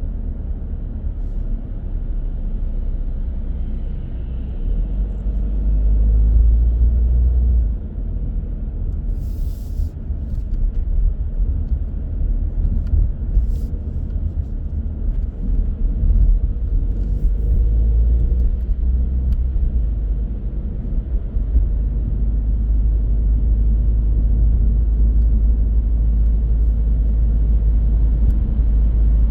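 Car driving on city roads: a steady low rumble of road and engine noise, with a few brief clicks about ten and thirteen seconds in.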